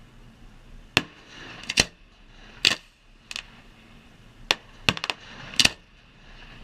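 Fireworks going off: about ten sharp bangs spread over five seconds, several coming in quick pairs and triplets.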